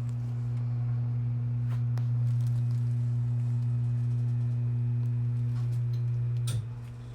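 A steady low hum, which drops sharply in level with a click about six and a half seconds in, leaving a quieter hum.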